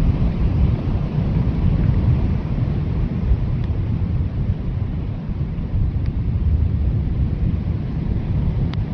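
Blizzard wind: a deep, steady rush of storm wind that swells and eases slightly in gusts.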